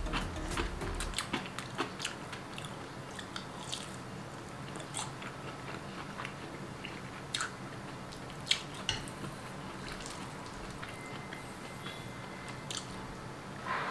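Close mouth sounds of a person chewing a mouthful of noodles: irregular wet clicks and smacks, a few louder ones in the middle, with chopsticks working in a metal wok.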